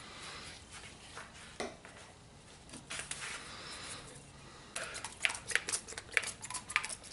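Hands gluing a hardboard runner to plywood with CA glue and accelerator: soft hissing, then from about two thirds of the way in a rapid series of light clicks and taps.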